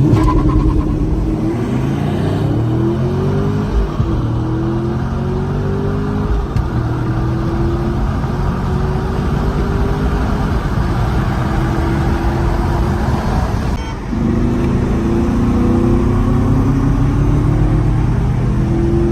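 Car engine accelerating hard, its pitch climbing and dropping back at gear changes about two, four and six seconds in, then holding steady before a brief dip and another pull near the end.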